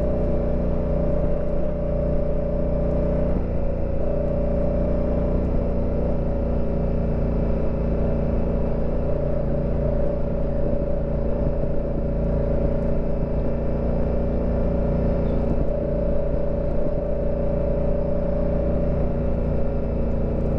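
Honda Africa Twin CRF1000L's parallel-twin engine running at a steady speed under way, with a low rush of wind and trail noise.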